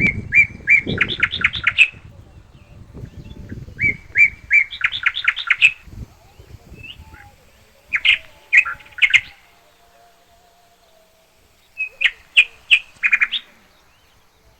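A songbird singing: a short phrase of quick chirping notes that speed up into a rattle, repeated four times about every four seconds.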